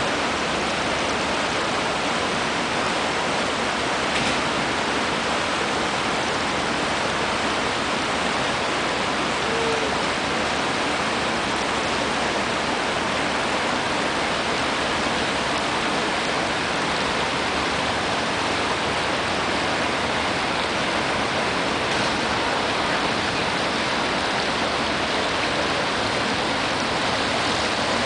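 Steady rush of water, a constant even noise with no breaks or changes.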